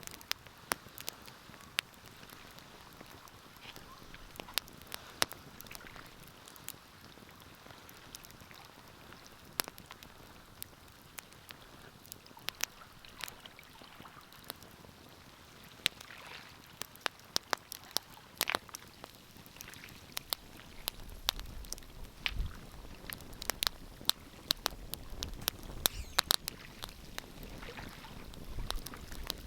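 Wood fire crackling in a fireplace: sharp, irregular pops and snaps over a soft hiss. A low rumble joins in during the last third.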